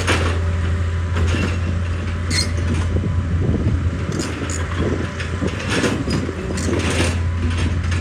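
Excavator's diesel engine running with a steady low drone, with irregular knocks and scrapes of steel on rock.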